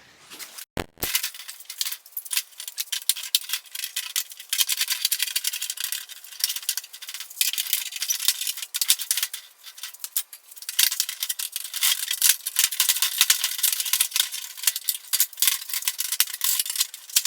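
Steel door skin being pried and pulled off a car door frame: a dense, irregular clatter of sharp metallic clinks and rattles, thin and without any low end.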